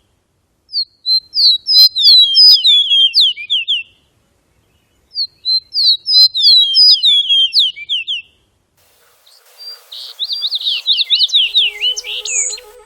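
A songbird singing three songs, each about three seconds long: a rapid run of sharp notes, each sliding downward in pitch. The third song is set against a background hiss, and a low wavering tone comes in near the end.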